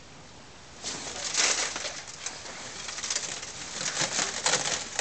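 Cloth cover rustling and crinkling as it is pulled off, starting about a second in as a run of rough, uneven rustles.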